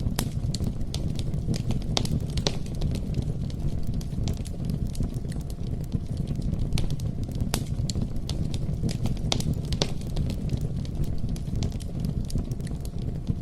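Wood campfire burning: a steady low rumble of flames with irregular sharp crackles and pops from the burning wood.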